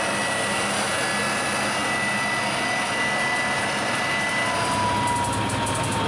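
Turbine jet engine of the Tuff Enuff drag-racing jet car running, a steady high whine over a broad rush. A second, lower whine slides slowly down in pitch near the end.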